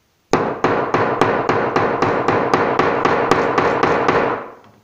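A hammer striking a mobile phone about fifteen times in quick, even succession, roughly three to four blows a second, then stopping near the end.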